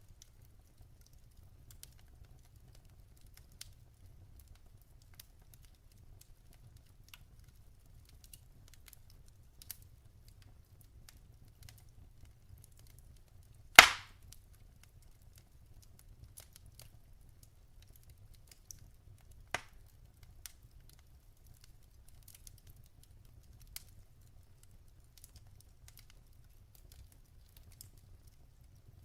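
Wood fire burning in a fireplace: scattered small crackles over a low steady rumble, with one loud pop about halfway through and a smaller pop a few seconds later.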